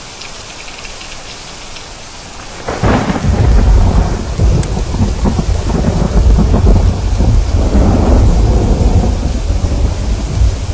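Steady rain, then about three seconds in a thunderclap breaks out and rolls into a long, loud, deep rumble of thunder that swells and fades over the rest of the clip, with the rain going on beneath it.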